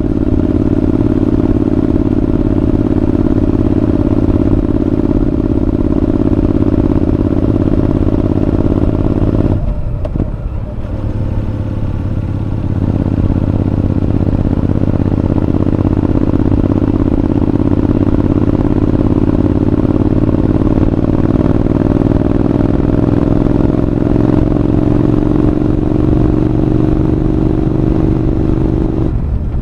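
Honda NC750X parallel-twin engine running through a Moriwaki aftermarket muffler under way. The note dips briefly about ten seconds in and again just before the end, and climbs slowly in pitch in between as the bike gathers speed.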